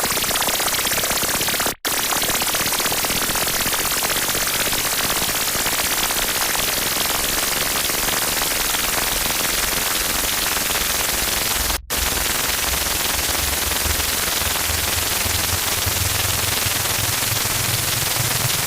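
Harsh noise: a loud, dense wall of distorted static and crackle, strongest in the highs. It cuts out for a split second twice. A low drone comes in underneath about two-thirds of the way through and steps up in pitch near the end.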